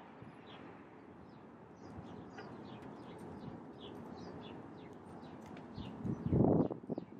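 Small birds chirping outdoors, many short, quick, falling chirps repeated throughout, over a faint steady background noise, with a brief louder rush of noise near the end.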